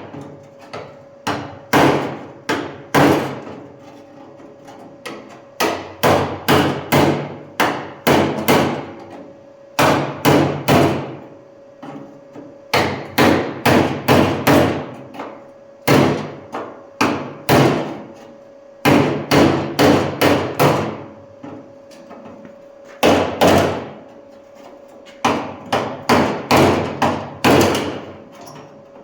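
Hammer blows on sheet steel, struck in quick groups of several with short pauses between, each blow ringing briefly: hammering off leftover metal on a car body panel.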